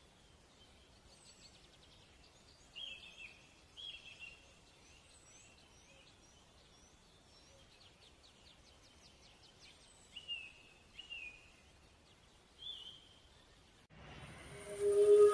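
Birds calling outdoors: short falling calls repeated about five times, with fainter high chirps between them. Music fades in near the end.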